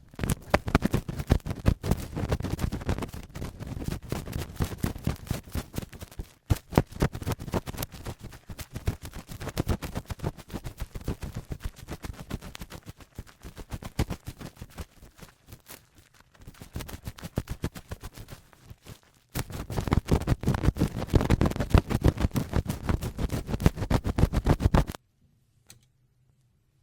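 Adhesive cotton swab rubbed and pressed against a microphone in ear-cleaning ASMR, a dense grinding, crackling scrape of many quick strokes right on the mic. It is quieter for a few seconds midway, then stops abruptly near the end.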